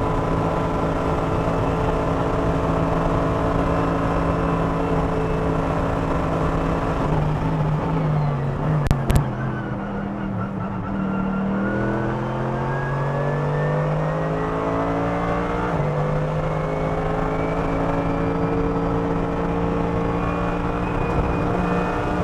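Mercedes-AMG GT3 race car's 6.2-litre naturally aspirated V8 heard onboard, running hard at high revs. About eight seconds in the engine note drops as the car slows, with two sharp clicks. From about twelve seconds it pulls back up through the revs, with one upshift near sixteen seconds, and then runs flat out again.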